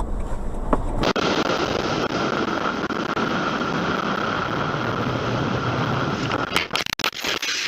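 Steady road and engine noise of a moving car heard from inside, with an abrupt change about a second in, as from one dashcam recording to another, and a few clicks near the end.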